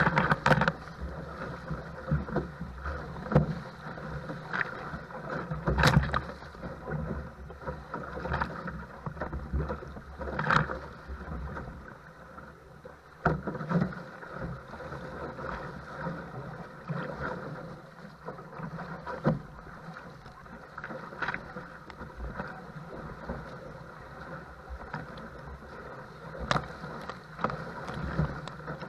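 Choppy wind-blown water slapping against a paddle craft, with sharp, irregular splashes every one to three seconds over a steady rush of water.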